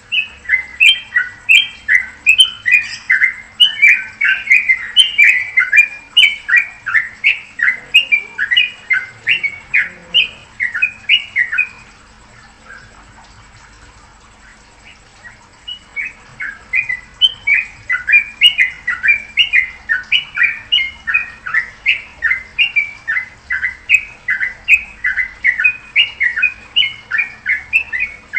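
Songbird calling in a fast chattering series of short, sharp notes, several a second, in two long bouts with a pause of about four seconds between them.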